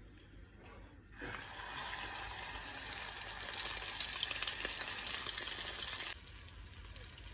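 Egg-dipped shikampur (beef and chana dal shami kebab) sizzling in hot oil in a nonstick frying pan, the sizzle starting about a second in as the patty goes into the oil and cutting off suddenly near the end.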